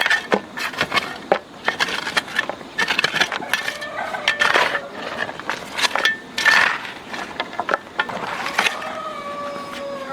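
Irregular knocks and clatter with short scraping sounds.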